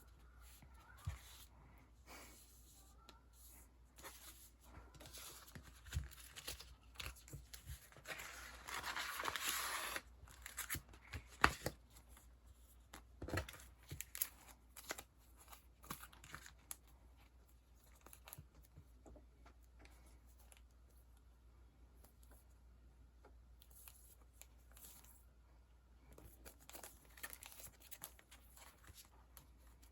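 Faint rustling and crinkling of sticker sheets and plastic packaging being handled, with small scattered taps and clicks. A longer tearing rasp comes about eight to ten seconds in.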